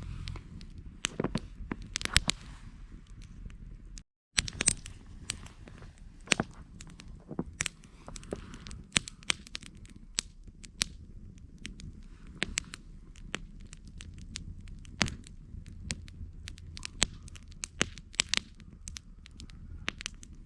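Wood campfire crackling, with irregular sharp pops coming several a second at times, over a low steady rumble. The sound cuts out completely for a split second about four seconds in.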